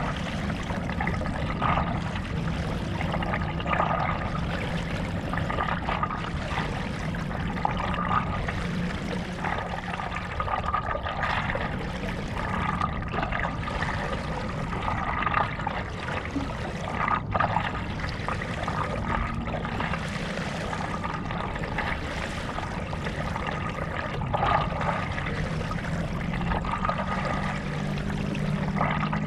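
Stand-up paddle strokes in lake water, a splash and trickle of water off the blade about every two seconds, over a low steady hum.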